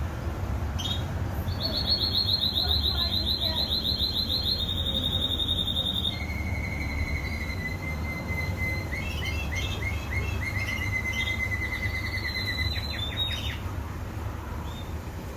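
Canary singing in rapid trills: a high, fast trill for about four seconds, then a lower trill broken by quick chirps for about seven seconds. A steady low rumble runs underneath.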